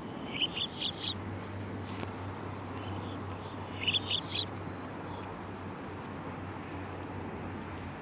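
A bird calling: two short runs of three or four quick, rising chirps about three seconds apart, over steady background noise.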